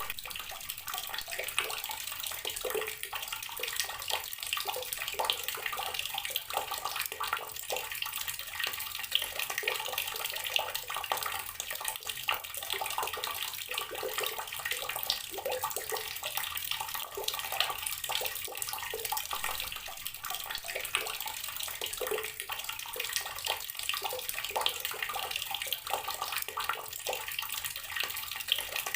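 Outdoor water tap running steadily, the stream splashing continuously and unevenly.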